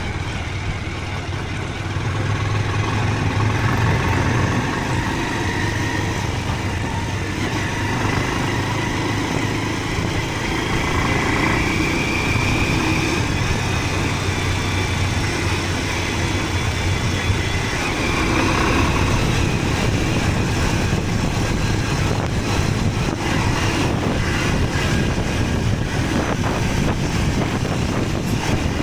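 Motorcycle engine running steadily on a ride, a low drone with road noise. Irregular buffeting and knocks come in over the last third.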